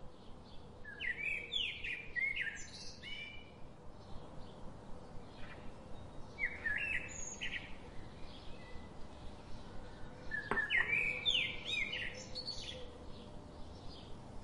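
Songbirds chirping and twittering in three bursts of song a few seconds apart, over a faint steady background.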